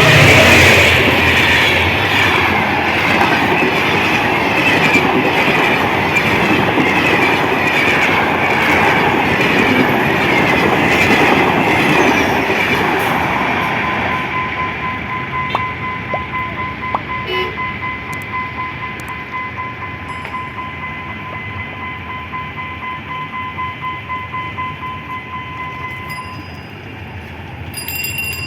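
A diesel-hauled train passing close by: loud at first, then the carriages roll past with a rhythmic clickety-clack of wheels over rail joints that gradually fades. A steady high beeping tone runs through the second half.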